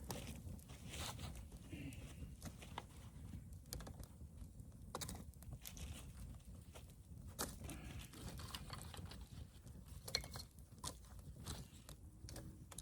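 Small campfire of fresh, unseasoned wood crackling, with irregular sharp pops and snaps over a low rumble.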